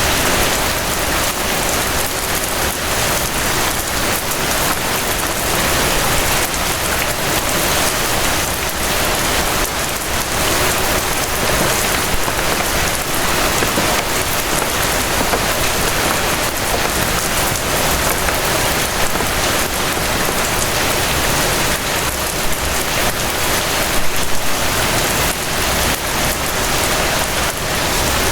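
Steady rain falling on a surface: a dense, even patter of drops.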